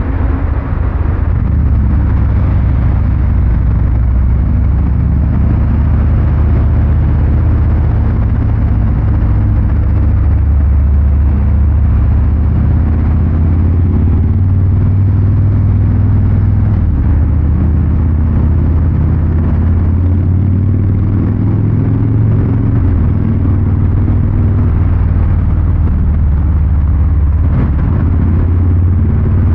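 2023 Harley-Davidson Fat Boy 114's Milwaukee-Eight 114 V-twin exhaust running under way, a loud, low, steady note that rises and falls a little with the throttle.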